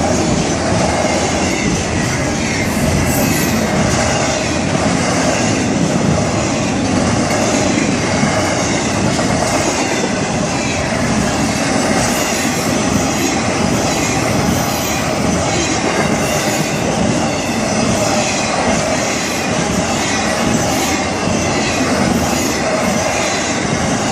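Florida East Coast Railway freight train 107 passing, its cars giving a steady, loud wheel-on-rail running noise.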